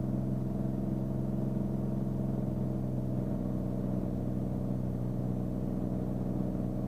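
Beechcraft Bonanza's piston engine and propeller running steadily in the cockpit, with an even drone that does not change in pitch or level.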